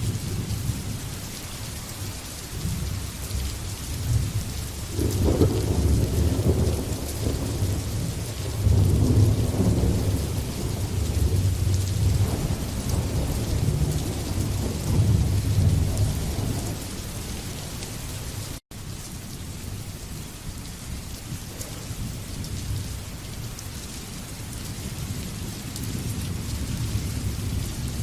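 Steady heavy rain hissing, with thunder rumbling low underneath in long rolling swells that are strongest through the middle, and a split-second break in the sound about two-thirds through.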